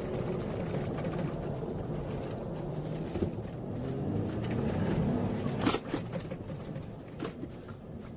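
A vehicle engine running and climbing in pitch, then a sudden loud noisy burst about five and a half seconds in, after which the engine sound drops away.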